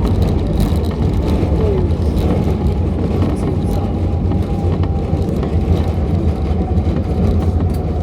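Steady low rumble inside the cabin of an Airbus A350-900: the engines and airflow, heard from an economy seat.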